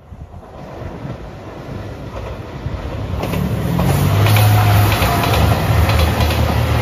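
JR Shikoku 2700 series diesel express train approaching and passing close by, growing louder over the first four seconds. A low, steady diesel engine hum runs under the wheels clacking over the rail joints.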